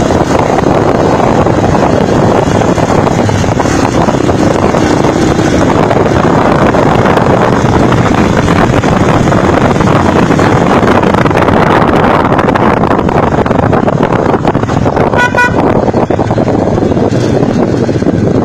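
Loud, steady engine and road noise of a motorcycle under way. A vehicle horn gives one short toot about fifteen seconds in.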